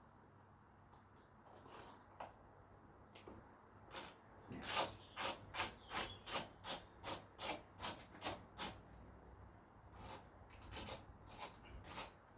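A hand tool with a T25 Torx bit working a fastener loose: a run of short rasping strokes, about three a second, after a few quiet seconds, then a few more uneven strokes near the end.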